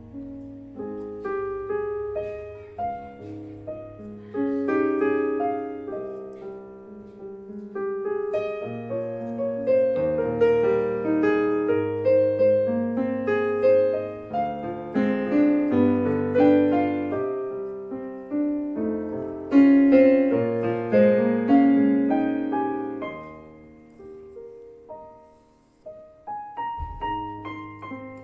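Casio CT-S1 portable keyboard played with a piano tone: a melody and chords over low held bass notes. The playing dies away and a new phrase starts near the end.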